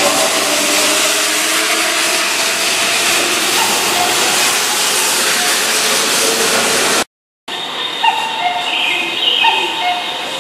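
Keihan electric commuter train running past along the platform: a loud, steady rush of wheels on rail and passing cars, with faint motor tones slowly falling in pitch as it slows. After a cut about seven seconds in, the sound drops to a quieter station background with short tones and a few brief knocks.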